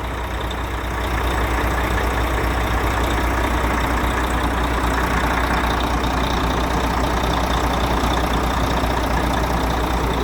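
Volvo FH13 truck's D13 inline-six diesel running steadily, picking up slightly about a second in, with no knock heard: after the gear replacement the knocking sound has gone.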